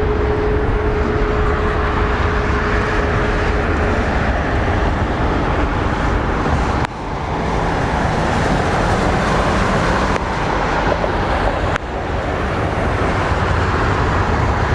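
Continuous roar of a Boeing 737-700-based BBJ's CFM56-7B jet engines as it departs at takeoff power. A faint steady tone fades out a few seconds in, and the level briefly drops a few times later on.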